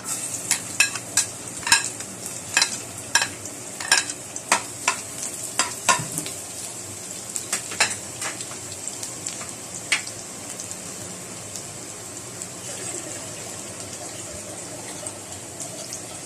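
Chopped garlic sizzling in hot oil in a pan, stirred with a utensil that clinks and scrapes against the pan many times over roughly the first ten seconds, then a steady sizzle.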